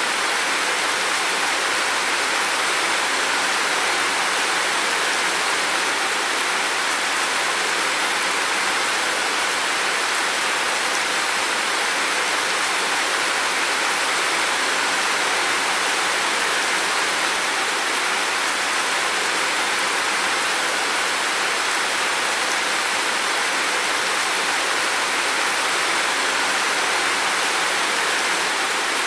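Heavy rain falling in a steady, dense hiss, with no distinct drops or thunder standing out.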